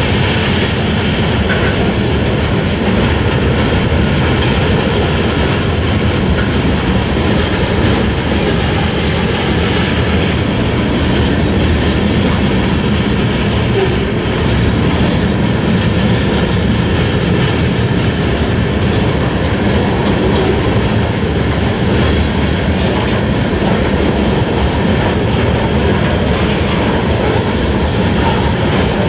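Freight train cars rolling past, a steady, unbroken noise of steel wheels running on the rails.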